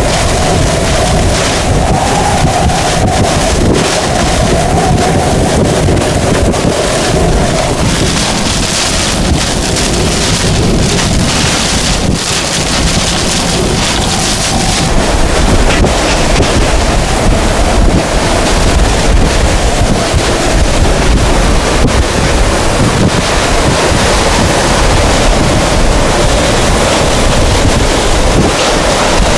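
Hurricane-force winds of a hurricane's eyewall: a loud, continuous roar with heavy wind buffeting on the microphone and a wavering howl that fades out partway through and returns later.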